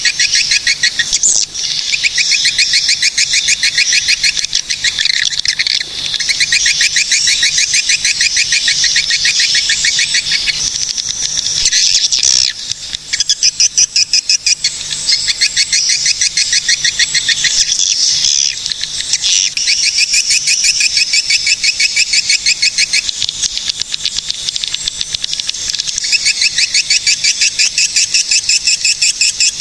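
Swiftlets calling: a dense, unbroken chatter of rapid, evenly repeated clicking chirps, many per second, dipping briefly about twelve seconds in.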